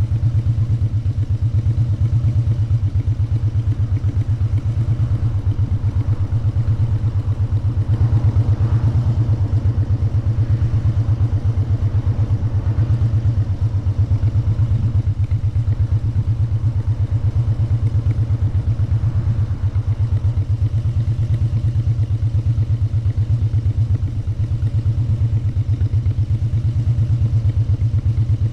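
Motorcycle engine running steadily on the move, its exhaust pulsing in a fast, even beat.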